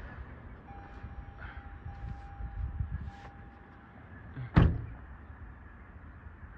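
A car's warning chime sounds as a steady tone for about three seconds, then a car door slams shut with one loud thud.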